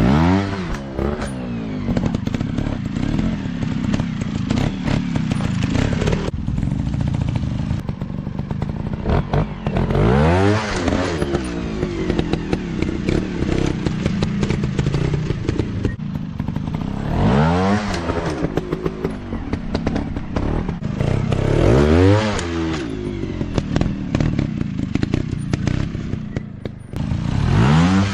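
Off-road dirt bike engines running hard, revving up and dropping back several times, over constant clattering and crackling from the bikes working through rough terrain.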